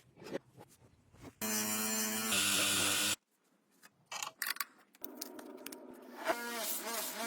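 Workshop restoration sounds: clicks and scraping, then a small electric power tool running with a steady buzz for about two seconds that cuts off suddenly. More clicks and scraping follow, and a tool motor whirs up near the end.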